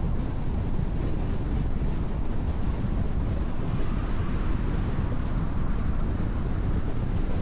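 Steady road noise of a car cruising on a rain-wet expressway: tyres running on wet asphalt over a constant low rumble.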